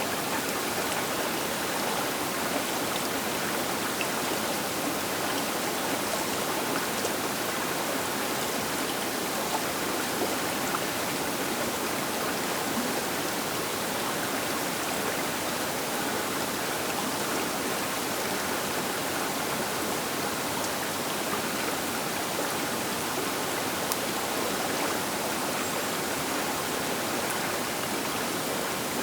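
Steady rushing of a large, fast river flowing past its bank.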